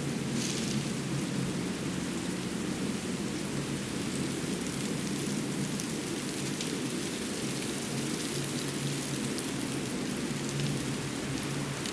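Winter forest ambience: a steady rushing noise, heaviest in the low-mid range, with faint scattered ticks on top.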